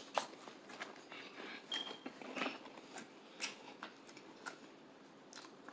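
Chewing a mouthful of crunchy fried chicken: faint, scattered crunches and wet mouth clicks, a few each second.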